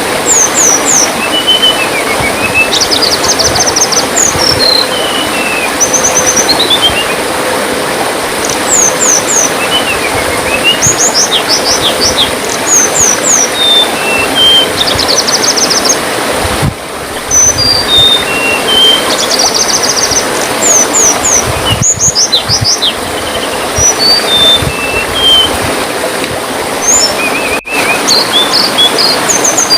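Tledekan songbird singing phrase after phrase of quick, high notes: rapid trills, short falling slurs and stuttered chips. Steady trickling water runs underneath, and the sound drops out briefly a few times.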